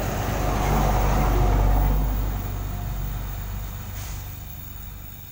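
Pressurised gas blown through refrigerator tubing to flush it: a rushing hiss over a low rumble that swells about a second and a half in, then gradually fades.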